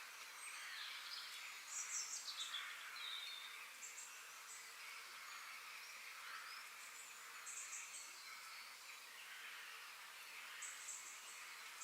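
Faint forest ambience: birds chirping and singing over a steady hiss, with short clusters of rapid high chirps, the loudest about two seconds in and more near the end.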